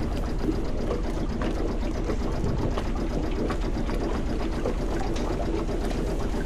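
A small sailboat's auxiliary engine running steadily under way, with a fast, even clatter, mixed with wind and water noise.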